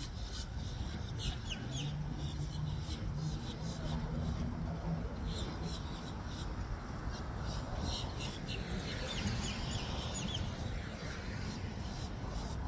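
Birds chirping: short, high calls in two spells, about a second in and again near the ten-second mark. Under them runs a steady low rumble of wind and road noise.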